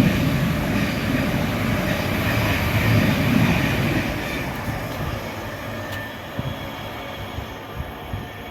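A train passing along the line: a steady rush of wheel and rail noise that is loudest about three seconds in, then fades as the train draws away.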